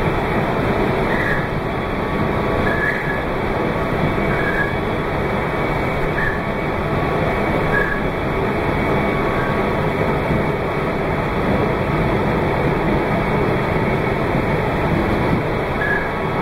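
Meitetsu 2200 series electric train running at speed, a steady rumble of wheels and motors heard from on board. Faint short high chirps recur about every second and a half in the first half and once near the end.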